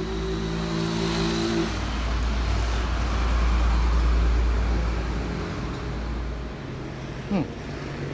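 Hitachi 255 mm aluminium-cutting miter saw running and cutting through a piece of wood. The noise swells during the cut, loudest about three to four seconds in, then dies away as the blade winds down; the saw cuts wood very smoothly.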